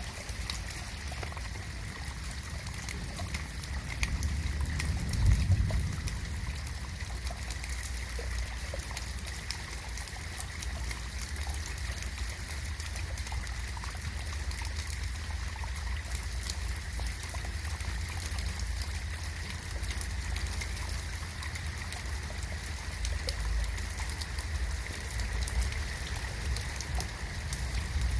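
Steady rain in a garden, a haze of pattering drops with trickling water. A brief low rumble swells about four to six seconds in.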